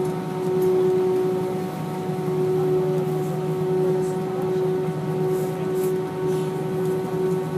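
Steady cabin noise inside an Airbus A319 on the ground after landing: a constant hum with a steady whine over it, as the airliner taxis to its stand.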